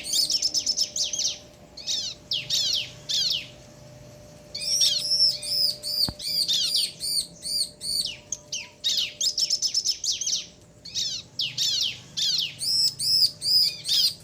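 Bar-winged prinias (ciblek), a male and female calling back and forth in rapid high chirping phrases of quick repeated notes and downward sweeps, broken by short pauses.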